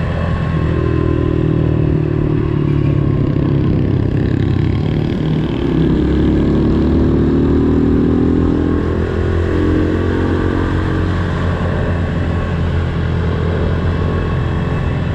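Pit bike engines running as the bikes are ridden, the pitch rising and falling with the throttle.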